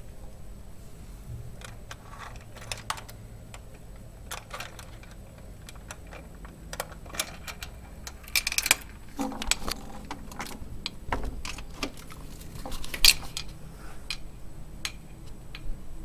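A low, steady hum of unknown origin, which the recordist rules out as a truck or an airplane. Scattered clicks and rattles sound over it, with a cluster about eight seconds in and one sharp click near the end, the loudest sound.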